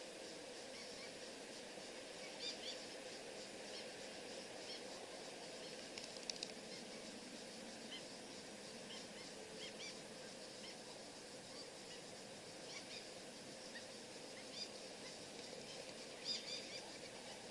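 Faint, scattered short bird chirps over a steady background hiss.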